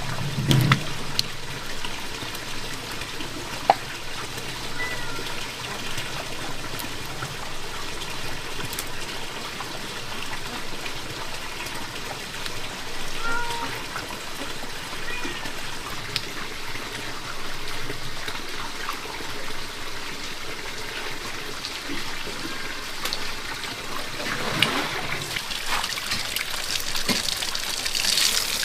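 Steady rain with water trickling and running off, a few faint short chirps over it and a low thump at the very start.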